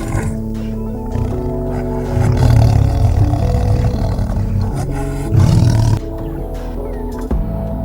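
A large animal's low roaring, in two loud stretches, over steady background music.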